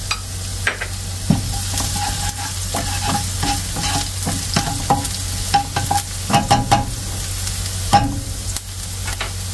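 Chopped onion and garlic sizzling in oil in a nonstick wok, with a spatula stirring them and scraping against the pan in short, irregular strokes.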